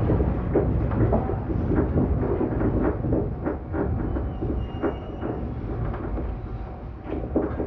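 Inside a JR 115 series electric train: a steady rumble of wheels on the rails with irregular clanks and rattles of the carriage, the whole sound easing off gradually as the train slows.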